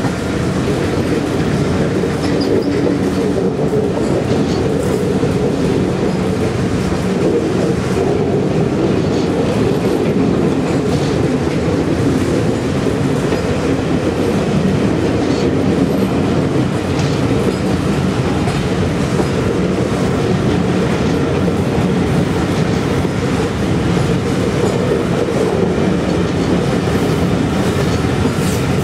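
A rake of passenger coaches rolling past close by at a steady speed: a continuous rumble of wheels on the rails with occasional clicks.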